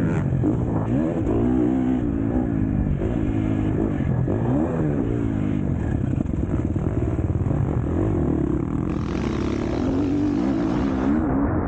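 Four-stroke KTM SX-F motocross bike's engine revving hard, its pitch climbing and dropping again and again as the throttle is worked through the track's sections.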